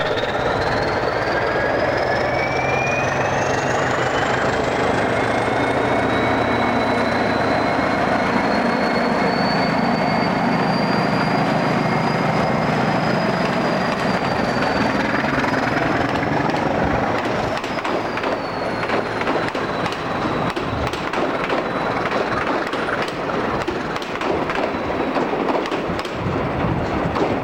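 A train running, with a whine that rises in pitch over the first dozen seconds as it gathers speed and then holds steady, over a constant rumble. In the second half it rattles and clicks over the rail joints, and the sound cuts off abruptly at the end.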